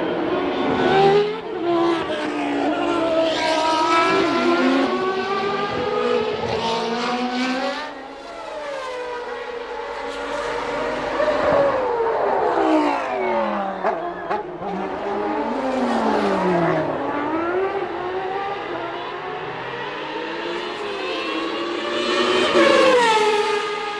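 1989 Formula One cars with naturally aspirated 3.5-litre engines running at high revs, several at once. The engine notes climb and drop through gear changes, with a lull about a third of the way in and a loud pass near the end.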